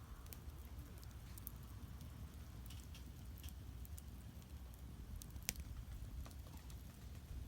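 Firewood burning in a traditional Korean agungi firebox: faint, scattered crackles and pops over a low steady rumble, with one sharper pop about five and a half seconds in.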